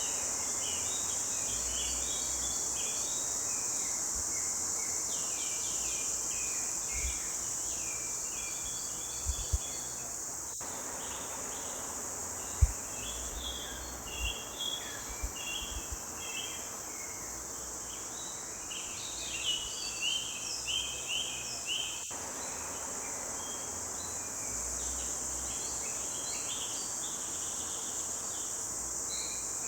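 Forest birds singing in a busy chorus of short chirping phrases over a steady, high insect drone like crickets. A few brief low thumps come through about nine to sixteen seconds in and again around twenty seconds.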